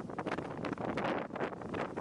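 Strong wind blowing across the microphone: a dense, steady rushing noise full of rapid little flutters and gust spikes.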